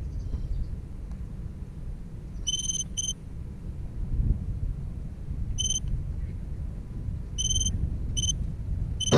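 Short high-pitched electronic beeps at one steady pitch, singly and in quick pairs, over a steady low rumble of wind on the microphone.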